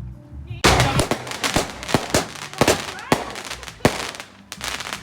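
Fireworks going off: a loud bang about half a second in, followed by a run of sharp bangs and crackles.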